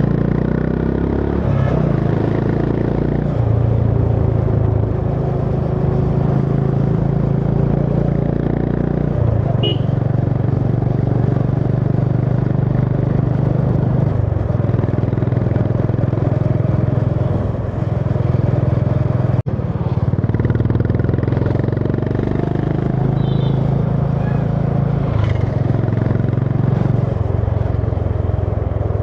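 Honda CB350 H'ness single-cylinder engine running under way, heard from the rider's seat. Its note rises and falls several times as the speed changes, over steady road and wind noise.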